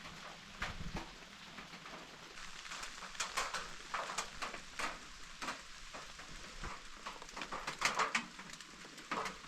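Light rain, with irregular drips and taps striking a surface.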